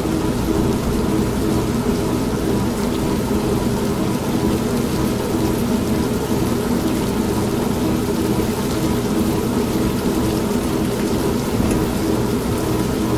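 An old manual washing machine runs with a steady hum, mixed with steady rain and a low rumble of thunder.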